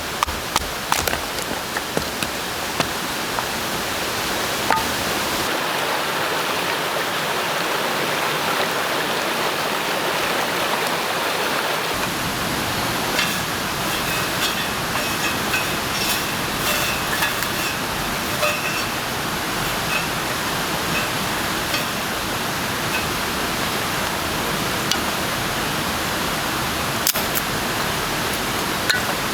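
A steady rushing noise with scattered small clicks and ticks.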